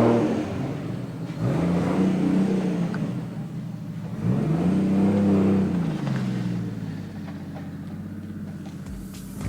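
Nissan R32 Skyline's turbocharged RB25DET inline-six running and revved twice, the pitch climbing, holding and then dropping back each time.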